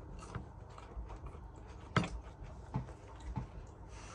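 A person quietly chewing a bite of chicken steak, with a few soft mouth clicks. The sharpest click comes about halfway through.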